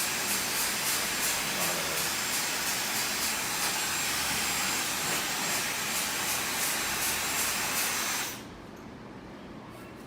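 Hair dryer blowing a steady rush of air, switched off about eight seconds in.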